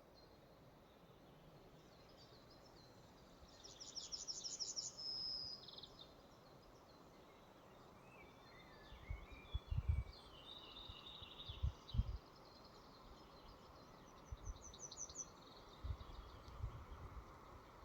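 Forest ambience: a soft steady hiss with songbirds singing short phrases, a quick trill of repeated high notes ending in a whistle about four seconds in, and more calls and another trill later. Several short low thuds in the second half are the loudest sounds.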